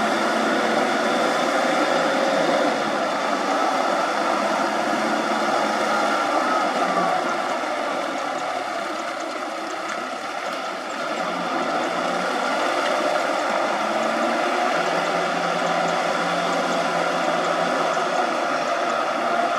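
Farm machine engine running steadily under load, easing off a little about halfway through and then picking up again.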